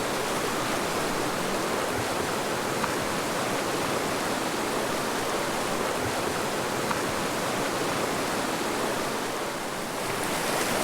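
Mountain river flowing: a steady rush of water, easing slightly near the end.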